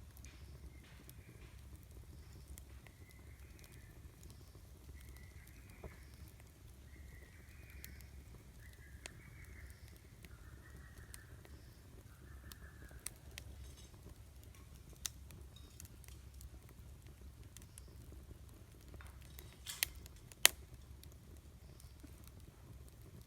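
Wood campfire crackling, with scattered small pops and two sharper snaps about twenty seconds in, over a low steady rumble.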